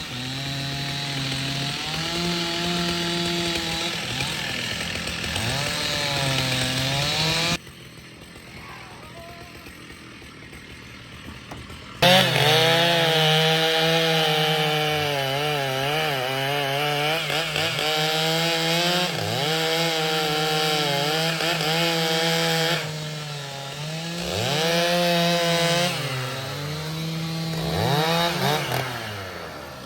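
Two-stroke Stihl chainsaw cutting wood, its engine pitch dipping and recovering again and again as the chain bogs in the cut. A much quieter stretch comes about 8 seconds in and ends abruptly about 4 seconds later.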